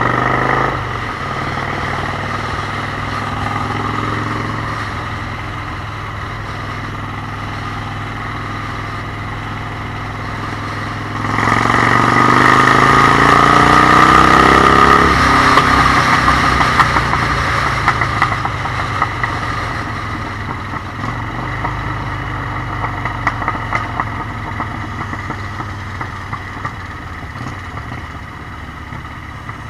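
Motorcycle engine running steadily, then revving up hard about eleven seconds in, the pitch climbing as it accelerates before slowly easing off.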